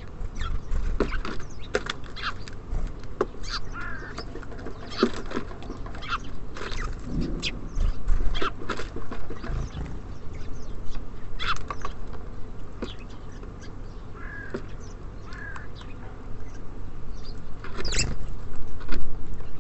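Small birds at a feeder: irregular sharp taps and knocks of pecking and hopping on the feeder, with a few short chirps. A louder knock comes near the end.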